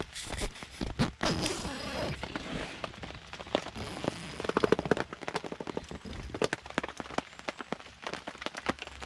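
Wood campfire crackling, with irregular sharp pops and a quick run of snaps about halfway through.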